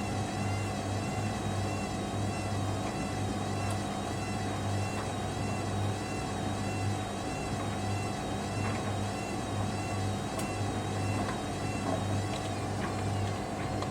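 Hoover Dynamic Next washer-dryer running mid-wash. There is a steady hum under a high motor whine that wavers up and down about once a second.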